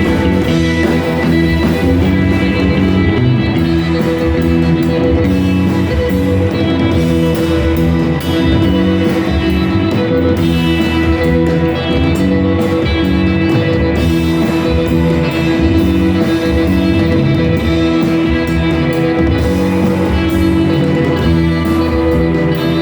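Live rock band playing an instrumental passage, electric guitars over bass and drums, loud and steady.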